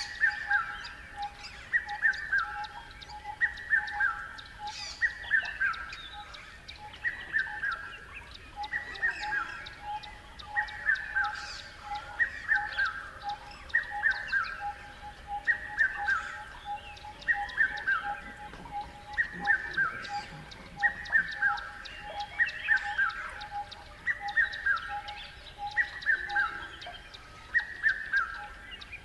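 Birds chirping: one call of quick falling notes repeats about every second and a half, over a steady fast-pulsing note and scattered higher chirps.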